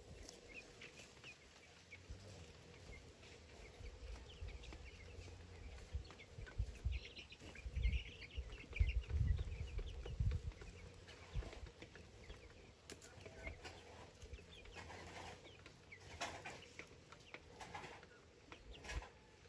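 Chickens clucking faintly, with scattered low thuds through the middle.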